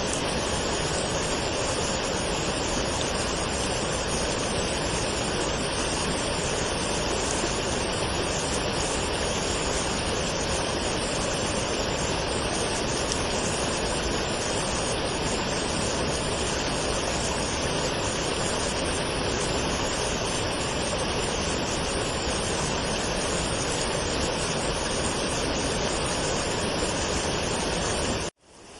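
Waterfall rushing in a steady, unbroken roar. Near the end it cuts out abruptly for a fraction of a second and fades back in, like the join of a looped recording.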